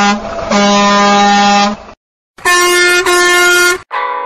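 Truck air horn honking in long blasts. A low blast ends just after the start and a second low blast lasts just over a second. After a short pause comes a higher-pitched horn blast of about a second and a half.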